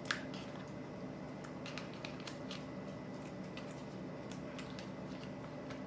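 Quiet kitchen room tone: a steady low hum with a few faint light clicks and taps.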